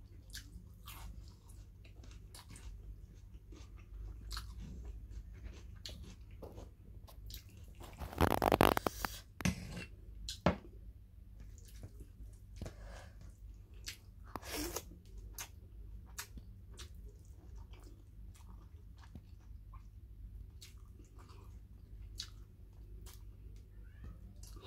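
A person eating rice and curry by hand: soft chewing and small mouth clicks, with a louder, longer burst of noise about eight seconds in and a shorter one about six seconds later.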